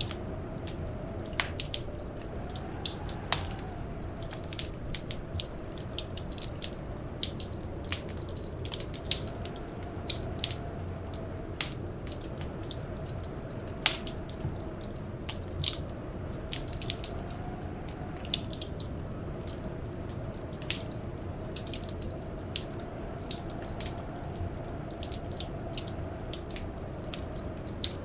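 Wood fire crackling in a fireplace: irregular sharp pops and snaps over a steady low rumble of burning. Beneath it runs a faint, slowly wavering whistle of blizzard wind.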